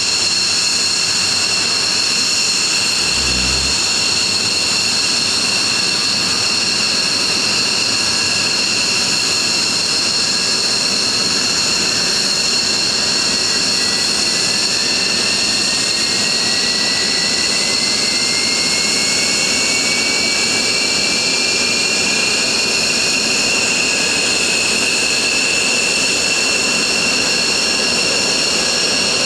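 Military jet engines running on the ground with several steady high-pitched whines; through the middle one whine climbs slowly in pitch as an engine spools up.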